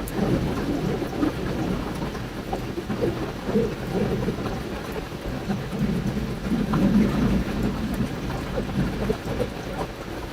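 Campfire burning with scattered small crackles over a steady low rush of flowing river water.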